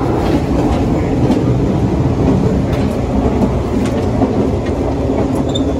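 Series 381 limited express train running at speed, heard from the door area at the end of a car: a loud, steady rumble of wheels on rail with scattered clicks and rattles.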